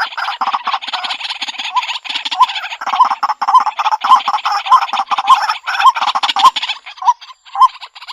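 White-breasted waterhen calling: a dense run of harsh, rapid croaking notes. From about two seconds in, a clear repeated 'kwak' note cuts through about every half second. This is the male's territorial call, used as a decoy call.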